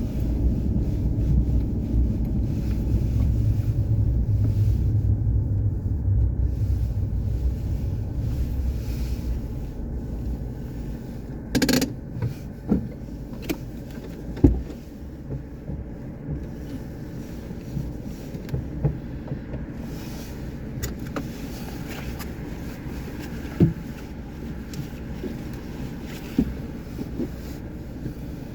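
A motor vehicle's engine running while the vehicle is turned around, a strong low rumble for the first several seconds that then drops to a quieter running sound. Scattered short knocks and clicks come through over the rest of the turn.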